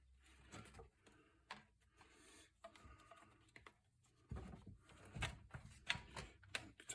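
Faint, scattered clicks and light taps of small parts being handled as a new carburetor gasket is lined up against its mounting holes, with a few sharper clicks near the end.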